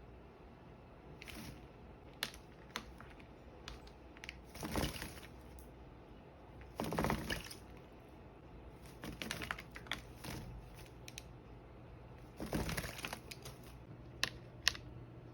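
Green-cheeked conure bathing, splashing water in short bursts, the biggest about five, seven and twelve and a half seconds in, with small clicks and taps in between.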